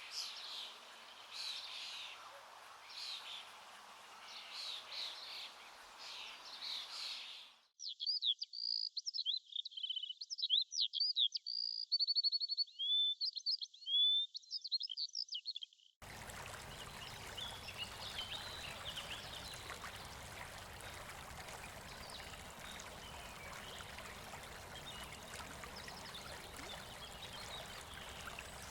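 Birds chirping and singing over a faint hiss. About eight seconds in, after an abrupt cut, comes clearer birdsong with quick trills and whistles. From about halfway through, a steady rush of running water takes over with faint chirps in it.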